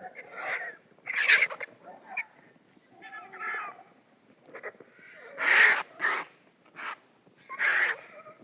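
Vultures squabbling at a carcass: a run of harsh, hissing squawks and cackles at irregular intervals, two of them louder than the rest.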